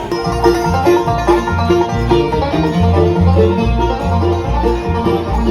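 A live band playing string-band music with a walking bass line.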